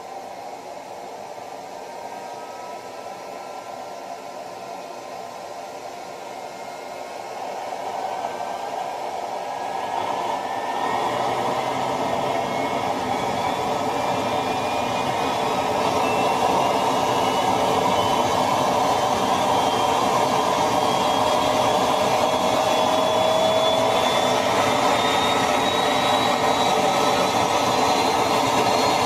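Jet engine accelerating: a turbine whine rising slowly and steadily in pitch over a loud rushing blast that grows louder about eight and eleven seconds in, then holds.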